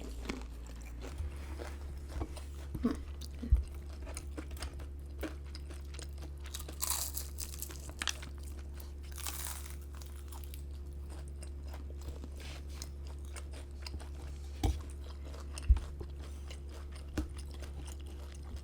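Close-miked eating: food being bitten, crunched and chewed, with scattered sharp clicks and a couple of brief crackly bursts, over a steady low hum.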